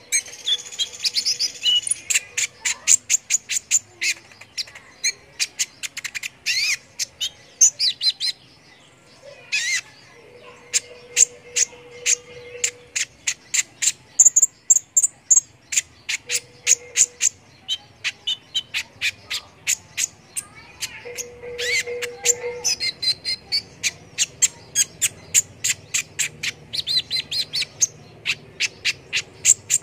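Kolibri ninja (a sunbird) singing in long runs of short, sharp, high-pitched chirps, about four a second, with brief pauses in between.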